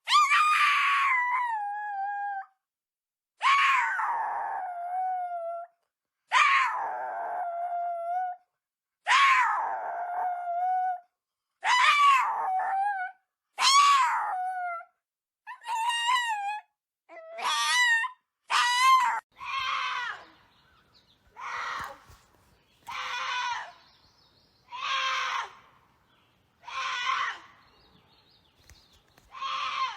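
An animal crying out over and over. The long, loud cries each rise and then fall in pitch and come more and more quickly. About two-thirds of the way in they give way to shorter, rougher calls about every two seconds.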